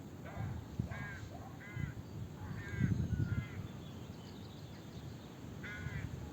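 Birds calling outdoors: a series of short calls repeated at irregular intervals, over a low rumbling background noise that is loudest about three seconds in.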